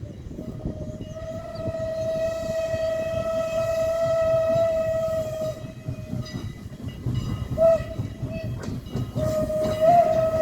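Canadian National #89 steam locomotive's Pennsylvania banshee whistle: one long blast of about five seconds, two brief toots, then another long blast starting near the end. Under it is the low rumble of the passing train.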